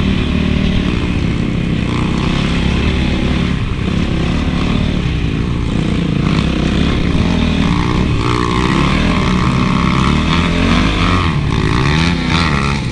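Honda CRF450 single-cylinder four-stroke motocross engine running under riding load, its revs rising and falling as the throttle is worked.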